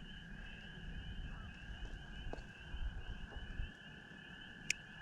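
A chorus of frogs trilling steadily, one continuous trill with a faster pulsing one above it, with a single sharp click near the end.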